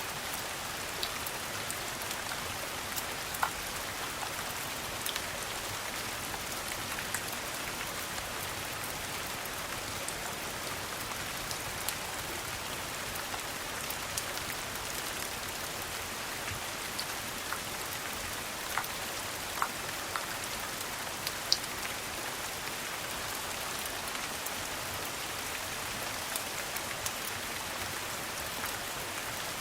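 Steady rain patter, with a few sharp clicks scattered through it.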